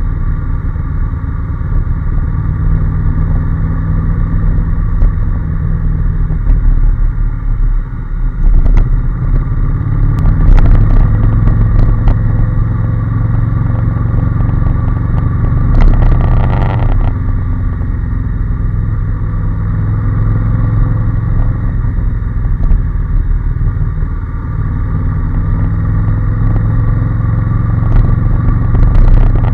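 Honda NC750S motorcycle's 745 cc parallel-twin engine running steadily under way, its note changing a few times. Two rougher, noisy stretches come about ten and sixteen seconds in.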